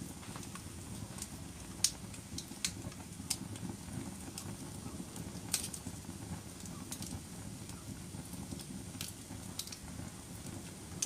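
Wood fire burning in a fireplace: a steady low rumble of flames with irregular sharp crackles and pops, the loudest about two and five and a half seconds in.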